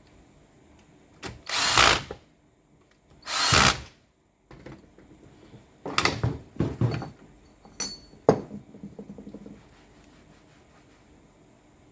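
Makita M8600B electric demolition hammer switched on in short test bursts: two runs of under a second each, then several quick blips, and a last burst whose motor winds down with fading ticks.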